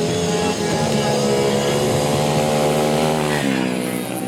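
Motorcycle engine accelerating, its pitch climbing steadily, then dropping sharply about three and a half seconds in before it pulls on again.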